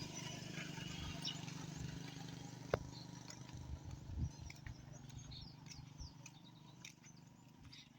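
Birds chirping in short calls over a faint low hum that fades away in the first few seconds, with one sharp click about three seconds in.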